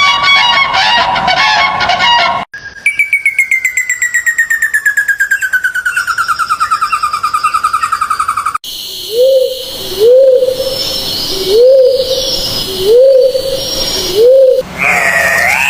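A run of bird calls cut one after another: a busy chattering song, then a long trill of rapid notes sliding steadily down in pitch, then five low hoots about a second and a half apart, each rising and dropping away.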